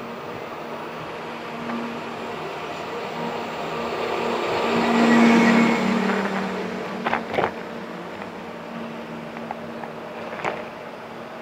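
City street traffic heard from a moving bike. A motor vehicle passes close by, building to loudest about halfway through and then fading. A few sharp clicks or knocks follow.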